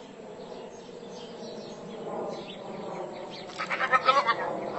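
A quick run of loud, rapid animal calls about three and a half seconds in, over a steady busy background.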